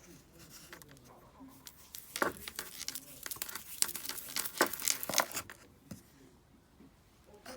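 Kinetic sand being handled: a run of crisp crackles and crunches from about two seconds in until about six seconds in.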